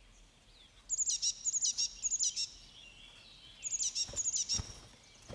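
A small songbird singing two short phrases of quickly repeated high chirps, one about a second in and another near the four-second mark. Two faint knocks come just after the second phrase.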